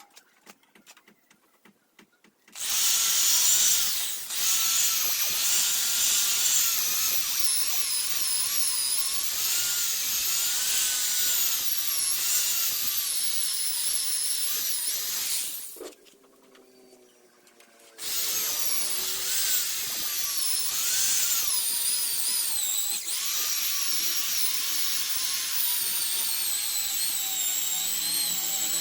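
Electric polishing machine running with a high motor whine whose pitch wavers as the load on the pad changes. It stops for about two seconds near the middle, then starts again.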